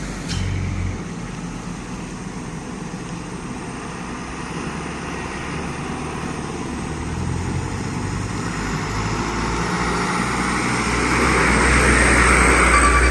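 A medium truck approaching, its engine and tyre rumble growing steadily louder toward the end. There is a brief knock just after the start.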